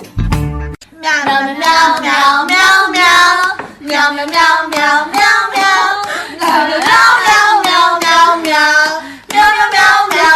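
A high voice singing a long run of short sung notes that slide up and down in pitch, starting just under a second in.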